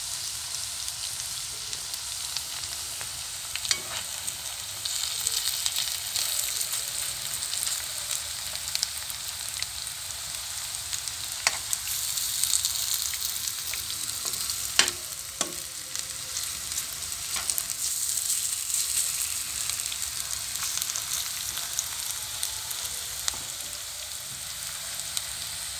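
Cabbage fritters sizzling steadily as they shallow-fry in a little oil in a nonstick pan. A few sharp taps and scrapes of a metal spoon against the pan come as the fritters are turned over one by one.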